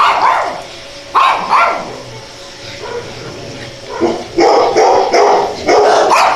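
Dogs barking: a few barks in the first two seconds, then a quick run of barks at about two a second from about four seconds in.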